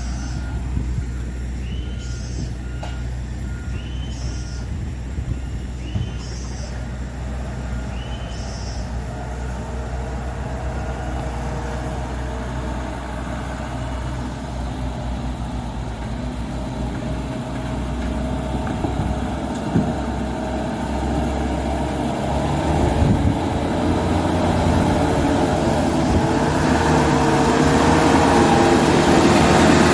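Dump truck's reversing beeper sounding every couple of seconds over its running diesel engine. The beeps stop after about ten seconds, and the engine grows louder in the second half.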